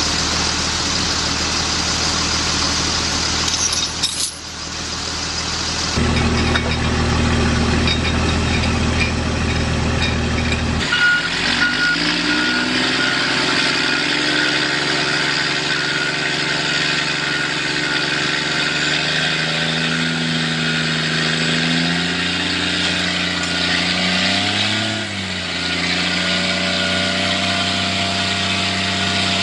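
Heavy vehicle engines running, with sudden changes a few times as one clip cuts to the next. In the later part an engine's pitch rises and falls as it is revved and loaded.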